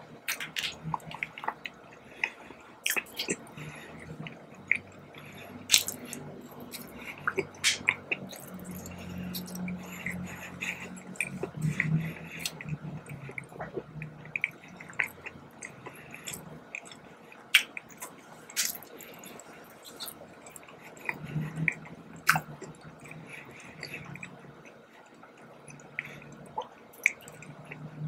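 A person chewing and biting a soft donut with the mouth close to the microphone: many sharp wet mouth clicks and smacks.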